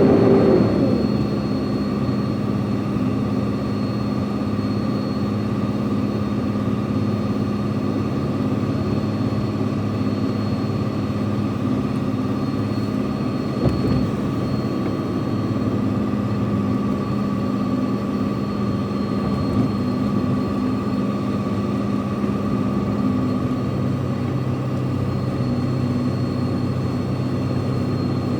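Truck engine running steadily as heard from inside the cab, with a change in its tone about 23 seconds in.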